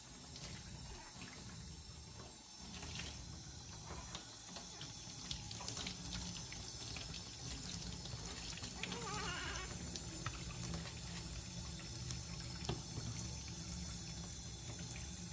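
Water running from a tap and splashing while a newborn baby is bathed, with a short wavering cry from the baby about nine seconds in.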